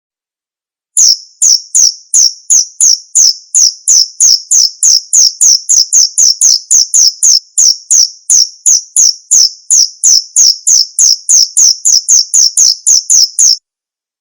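Male field cricket ('jangkrik bos') chirping in a steady run of about three sharp chirps a second. It starts about a second in and stops abruptly shortly before the end.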